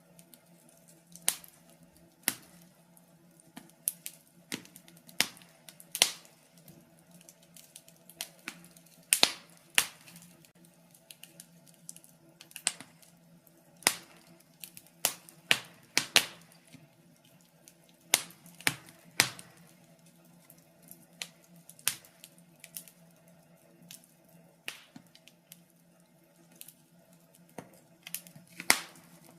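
Wood fire crackling: irregular sharp pops and snaps, one or two a second and varying in strength, over a faint steady hum.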